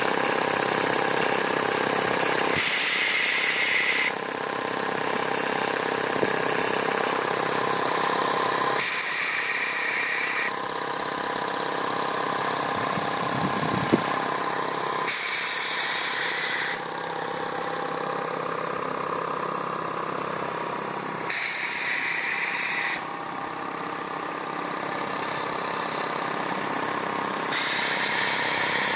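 1942 Aerograph type 220 compressor running steadily with a motor hum, broken about every six seconds by a loud burst of hissing air lasting about a second and a half, five times.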